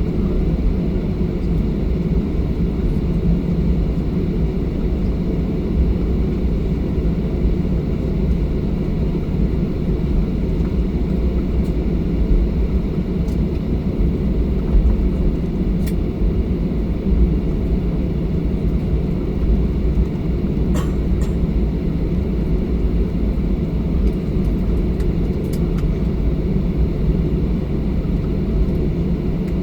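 Boeing 737-800's CFM56-7B engines at low taxi thrust, heard from inside the passenger cabin as the airliner taxis: a steady low rumble.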